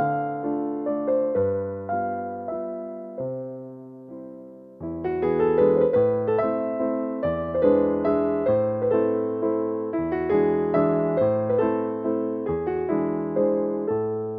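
Soft instrumental music on electric piano: gentle chords and melody notes struck one after another, thinning to a few sustained notes before fuller playing resumes about five seconds in.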